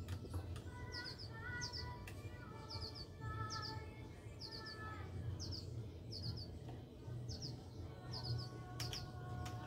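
A small bird chirping over and over in quick clusters of short high notes, with a few sharp clicks as the Singer 319W's needle-position lever is moved.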